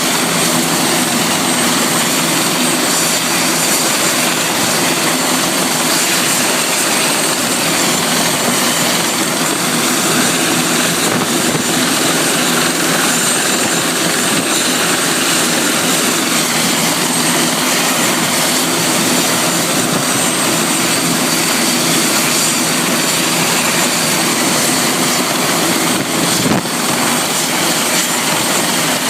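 Helicopter engine and rotor noise, loud and steady, with a brief dip near the end.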